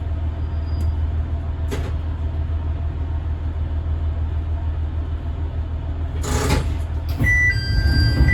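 Diesel railcar's engine running with a steady low hum. About six seconds in there is a short hiss of air. About a second later a repeating two-tone electronic chime begins as the train stands at the station with its doors released for passengers.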